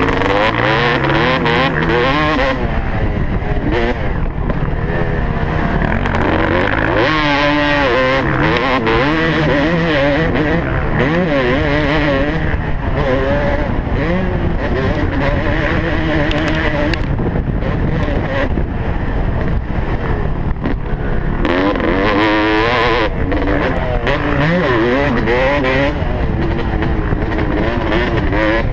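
Motocross dirt bike engine at race pace, its revs rising and falling again and again as the rider works the throttle and shifts gears, over a steady rushing noise.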